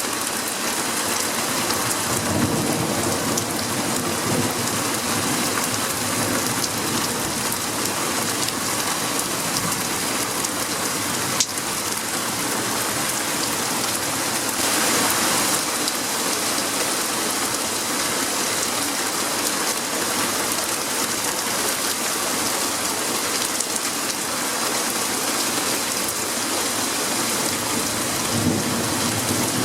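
Heavy rain pouring down steadily during a thunderstorm, with low rumbles of thunder about two seconds in and again near the end.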